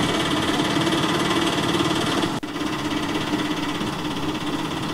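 Auto-rickshaw's small single-cylinder engine running steadily with a fast, even chugging rattle, broken by a short dip about halfway through.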